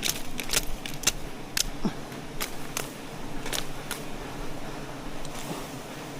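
A series of sharp, irregular clicks or snaps in the first four seconds over a steady low hum.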